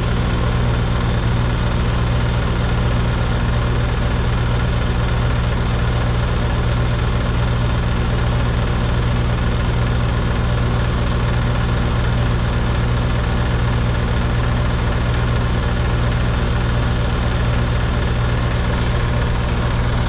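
Outdoor air-conditioning condensing unit running: a steady compressor hum with the condenser fan's rush over it. The system is undercharged, showing high superheat and low subcooling.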